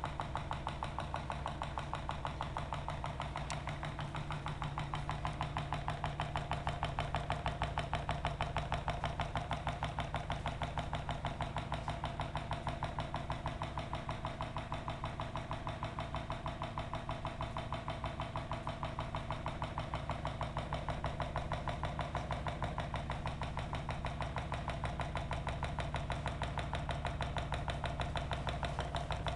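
Homemade hot-air Stirling engine made from a drink can, running steadily with a fast, even mechanical beat over a constant hum.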